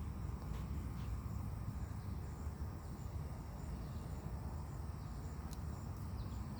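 Outdoor ambience: a steady low rumble, with faint high insect chirping pulsing in the background and a few light clicks.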